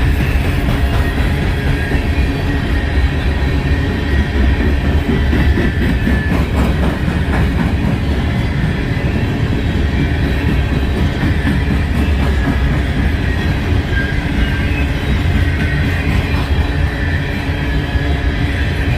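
Freight train cars rolling past with a steady low rumble, their wheels clicking over the rail joints now and then, with a faint thin wheel squeal.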